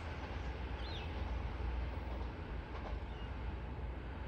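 Double-deck electric train running away into the distance, a steady low rumble that fades slowly, with a short bird chirp about a second in.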